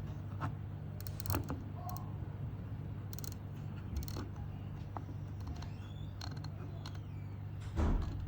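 Scattered small mechanical clicks and creaks from handling a CNC MPG handwheel, over a steady low hum. A louder knock comes near the end.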